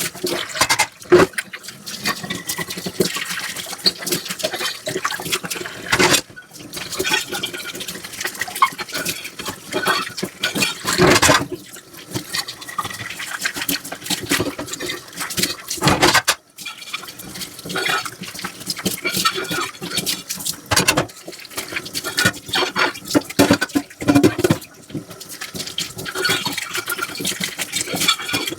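Dishes being washed by hand in a sink: water running and splashing, with frequent irregular knocks and clinks as dishes are handled and set down.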